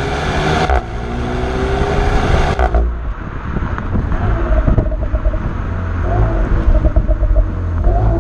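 Renault Mégane RS's 1.8-litre turbo four-cylinder accelerating hard, its revs climbing, with a quick upshift of the EDC dual-clutch gearbox about a second in. Near three seconds in the revs fall away and the engine carries on at a lower, rougher rumble.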